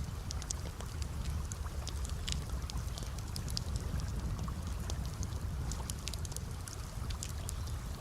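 Campfire crackling: many small, sharp, irregular pops over a steady low rumble.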